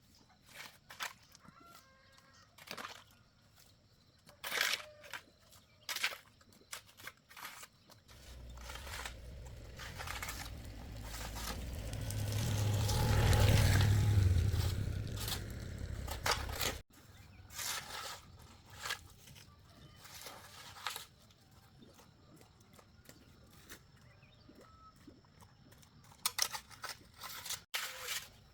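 Scattered short clicks and knocks, with chickens clucking. About a third of the way in, a low rumble swells to the loudest point and then cuts off suddenly.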